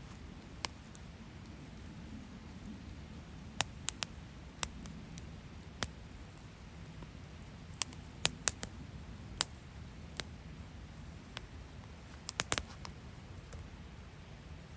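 Wood campfire crackling: scattered sharp pops and snaps, some in quick clusters, over a faint low rumble.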